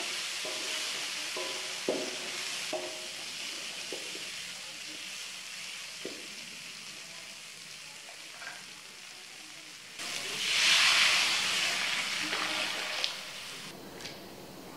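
Ground spice paste with lemongrass and lime leaves sizzling in a wok as it is stirred, with a few light taps of the spatula on the pan. About ten seconds in the sizzle suddenly gets louder as coconut milk goes into the hot pan, then dies down over a few seconds.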